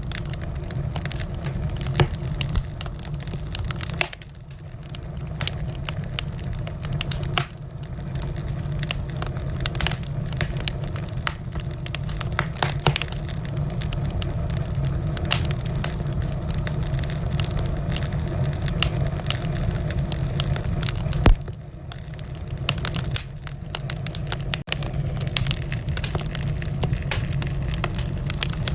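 Wood fire burning in a fireplace: a steady low rumble of flames with frequent small crackles and pops, and one louder sharp pop about three-quarters of the way through.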